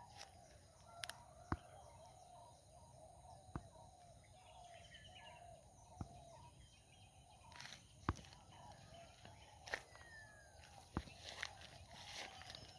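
Faint outdoor ambience: a low, wavering hum runs steadily under scattered sharp clicks, with a few short bird chirps, one of them a falling note near the end.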